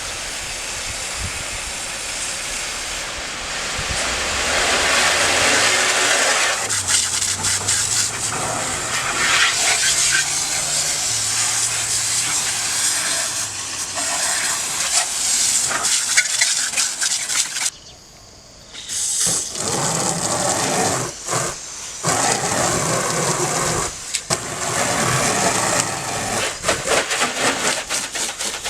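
Water spraying in a hiss from a hose-fed washing gun, in several long bursts with a short break partway through.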